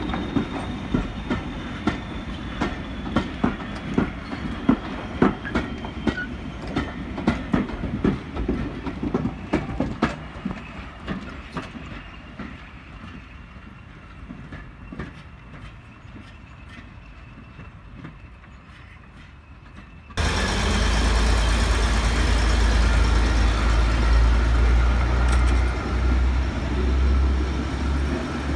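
Passenger coaches rolling past with their wheels clicking over the rail joints in a quick rhythm, the clicks thinning and fading as the train draws away. About twenty seconds in, a cut brings the steady low drone of a heritage diesel multiple unit's engines, much louder.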